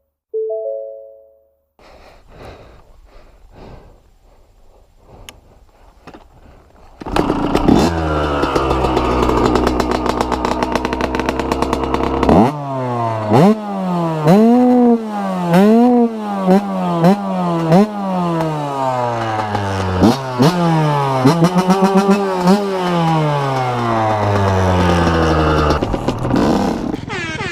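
Dirt bike engine, quiet at first, then loud about seven seconds in and sinking in pitch. It then revs up and eases off again and again in a string of rising and falling pulls. A short two-note chime sounds at the very start.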